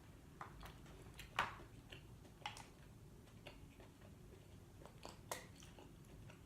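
Quiet eating sounds: soft chewing with a scattering of small clicks and taps, a sharper tap about a second and a half in and another near the end.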